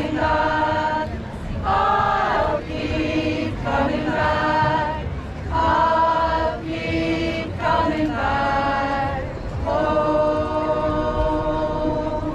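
A choir singing held notes in phrases a second or two long, with short breaks between them.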